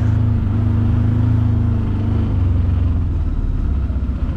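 Side-by-side UTV engine running, its pitch settling lower about halfway through.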